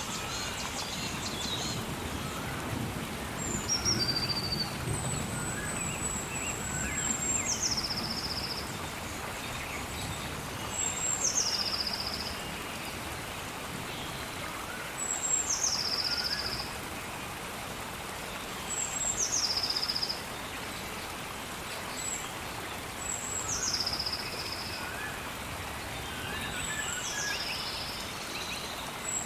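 Steady rain with a bird calling over it: a high note that slides down and ends in a brief trill, repeated about every four seconds, with fainter chirps from other birds in between.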